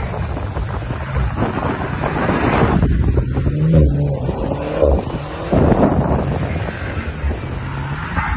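Tuned VW Golf Mk7 R's turbocharged 2.0-litre four-cylinder on a straight-piped Milltek exhaust revving up and down as the car drifts on sand, with wind buffeting the microphone.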